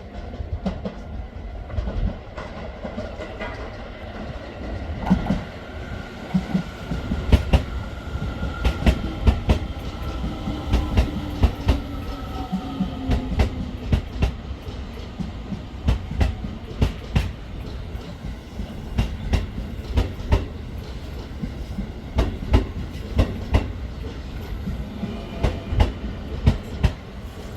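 A Keio Line electric train running past, its wheels clattering over the rail joints in a long run of sharp clicks, with a faint whine that falls slowly in pitch partway through.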